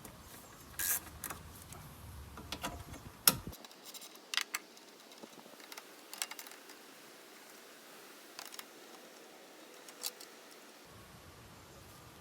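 Scattered metallic clicks and clinks of hand tools and bolts as the top bolts are taken off a mower engine, a few seconds apart and more frequent in the first few seconds.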